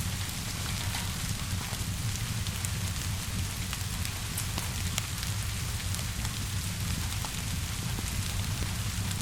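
Steady rainfall hissing outside, with a low rumble beneath and scattered sharp crackles and pops from a wood fire.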